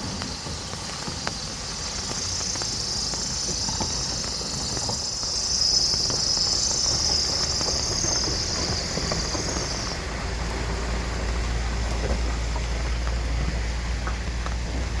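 Insects chirring steadily in a high band, swelling in the middle and stopping about ten seconds in. A low steady rumble takes over for the last few seconds.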